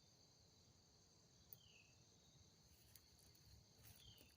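Near silence with a faint, steady insect chorus such as crickets. Twice, a faint short chirp drops in pitch, and there are a few tiny ticks.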